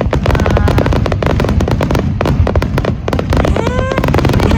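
Aerial fireworks display going off in quick succession: a dense run of crackles and bangs over a deep rumble, with a rising pitched tone near the end.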